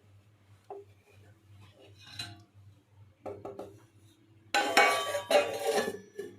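Dishes and cutlery being handled: a few light clinks, then about four and a half seconds in a loud clatter of metal and crockery knocking together for about a second and a half.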